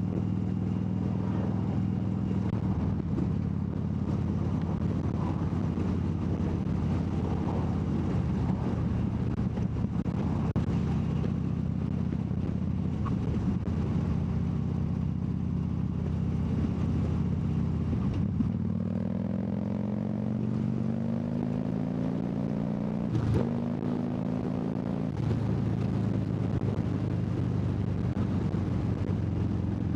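Harley-Davidson Dyna Wide Glide's 103 cubic-inch (1690 cc) V-twin engine running steadily under way. About two-thirds of the way through, its note climbs steadily for several seconds and then drops back, with a short sharp knock just before the drop.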